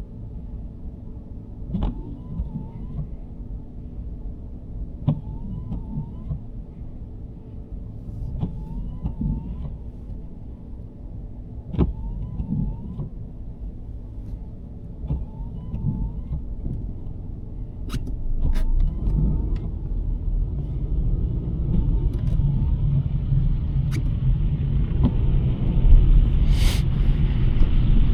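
In-cabin road noise of a 2023 Nissan Sentra driving on a snowy road: a steady low rumble that grows louder about two-thirds of the way through. A faint short squeak repeats every second or two, with a few sharp clicks and a brief hiss near the end.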